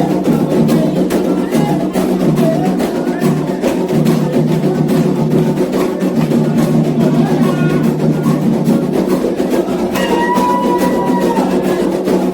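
Candomblé ceremonial music: atabaque hand drums beating a fast, steady rhythm under a chorus of singing voices.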